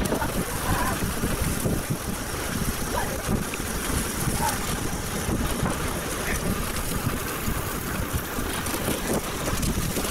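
Wind buffeting the microphone while riding a bicycle: a steady, fluttering low rumble.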